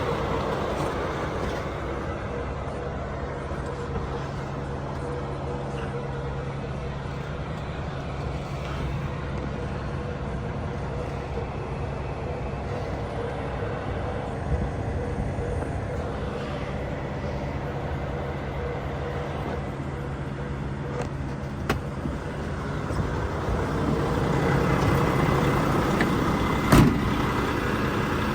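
Volvo FH 420 truck's 13-litre six-cylinder diesel idling steadily. It grows somewhat louder near the end, where there is one sharp click.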